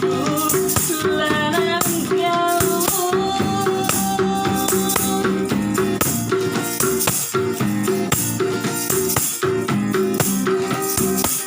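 Street busker's music: a song with a held melody line over a steady, even rhythm from a hand-shaken rattle.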